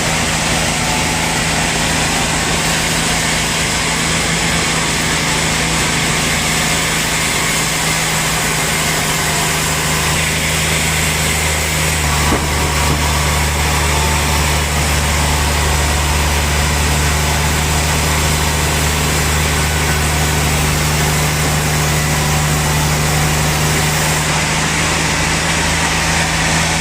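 Sawmill machinery for cutting large logs running steadily, with a low hum that grows stronger about ten to twelve seconds in.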